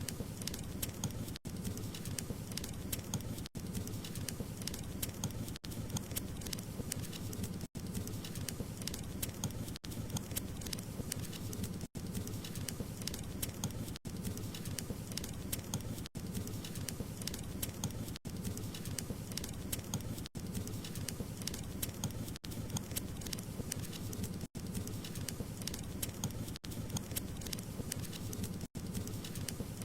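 Wood fire burning, a steady crackle of many small sharp pops over a low rumble. The sound drops out for an instant about every two seconds.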